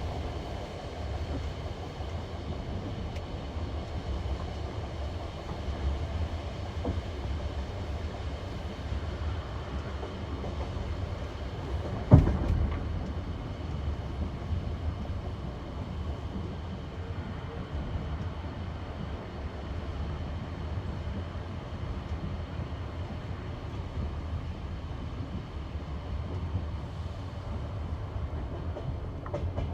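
Passenger train wheels running over jointed rail, a steady rumbling clatter of wheels on the rail joints heard from inside the carriage. One sharp, loud bang about twelve seconds in.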